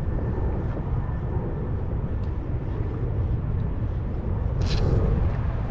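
Wind buffeting the microphone as a steady low rumble, with a brief sharp click about three-quarters of the way through.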